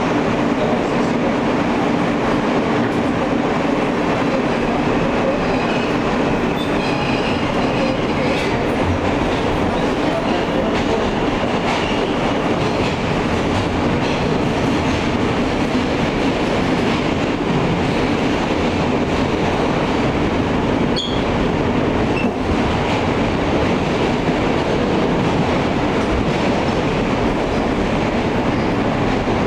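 Alstom R160A subway car running at speed, heard from inside the car: a steady rumble of wheels on rail with light clickety-clack, a few faint high squeals early on, and one sharp click about two-thirds through.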